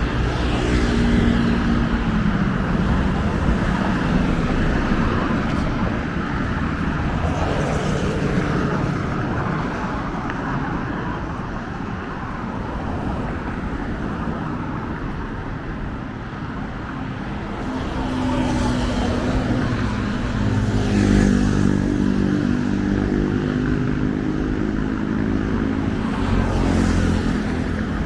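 Road traffic: cars and motorcycles driving past close by, their engine sound swelling and fading as each one passes, with a busier stretch in the last third.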